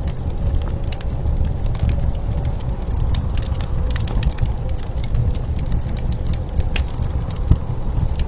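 Blizzard wind blowing with a steady low rumble, and a wood fire crackling with scattered sharp pops.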